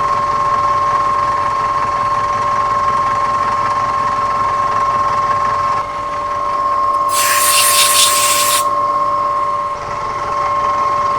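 A milling machine spindle starts and runs, its cutter working into a metal block with a steady whine, heavily loaded in a deep cut. About seven seconds in, a loud hiss joins it for a second and a half.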